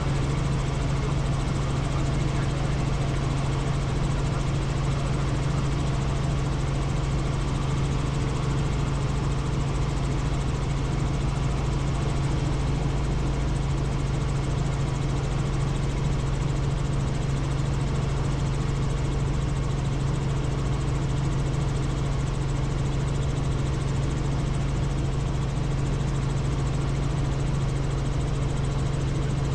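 Helicopter in flight: a steady, even drone of engine and rotors with a strong low hum and no change in pitch or level.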